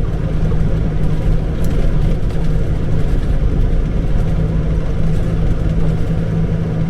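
Semi truck's diesel engine running at a steady, low drone, heard from inside the cab along with road noise.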